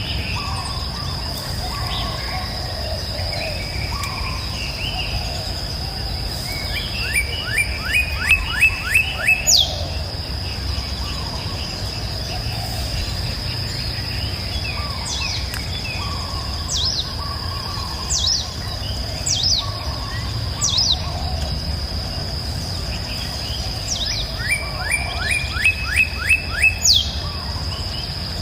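Wild birds calling: two quick runs of short descending notes and scattered sharp down-sweeping chirps, over a steady high insect trill and a low rumble.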